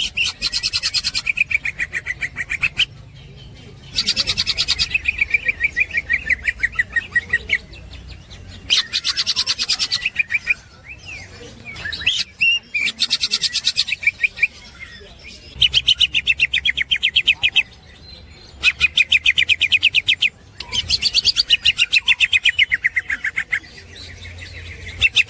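Green leafbird (cucak ijo) in ngekek: a rapid, rattling chatter of fast-repeated notes, delivered in phrases of two to three seconds with short pauses between them.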